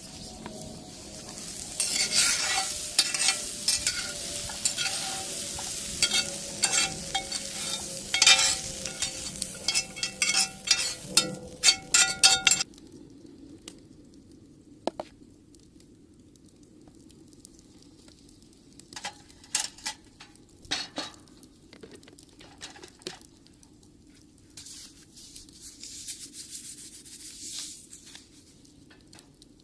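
Omelet mixture sizzling in a cast-iron skillet over a wood fire, with a utensil clicking and scraping against the pan. The loud sizzle stops abruptly about halfway through, leaving a few scattered taps and a fainter sizzle near the end.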